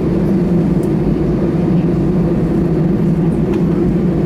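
Steady cabin noise inside an Airbus A319 on the ground after landing: an even, loud hum from the engines and air systems, with a low drone and no change in pitch.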